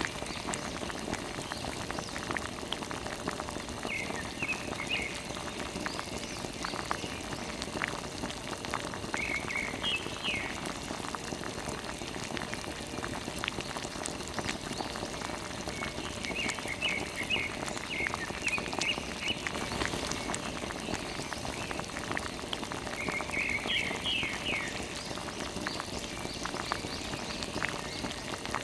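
Steady pattering and splashing of water, full of small drips and clicks. Short runs of high chirps come through four times.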